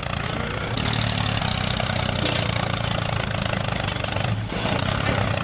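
A small engine or motor running steadily with a low hum, with a brief dip about four and a half seconds in.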